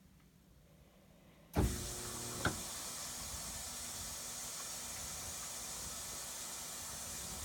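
A clunk about a second and a half in, then a steady hiss of water rushing into an older Whirlpool washing machine as it begins to fill, with a short click about a second after the clunk.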